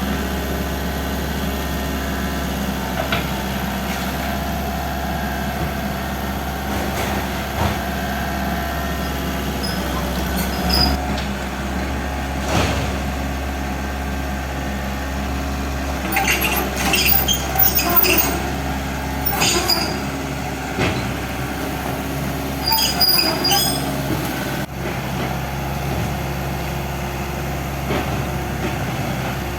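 Hydraulic excavator's diesel engine running steadily, with bursts of clattering and crunching as the building is broken apart, most of them about halfway through and again a little later.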